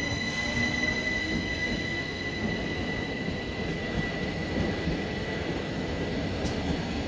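Rhaetian Railway passenger train rolling past on metre-gauge track, a steady rumble of wheels and coaches, with a steady high wheel squeal that fades away over the first few seconds.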